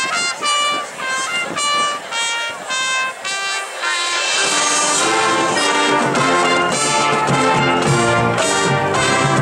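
Marching band playing its halftime show. It opens with a run of short, evenly spaced notes, and about four seconds in the full band enters with brass and low brass playing louder held chords.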